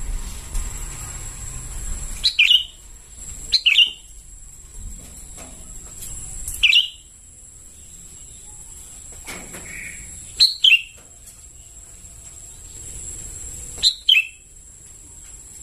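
Young sooty-headed bulbul (kutilang) calling: short, sharp chirps, some single and some in quick pairs, spaced a few seconds apart.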